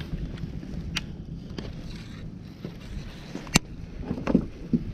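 Wind rumbling on the microphone in a kayak, with a few sharp clicks and knocks from handling as a bass is landed, the loudest about three and a half seconds in.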